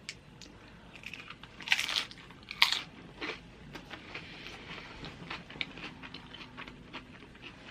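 Tortilla chips crunching as a person bites into loaded nachos, two loud bites close together about two seconds in, then steady crunchy chewing.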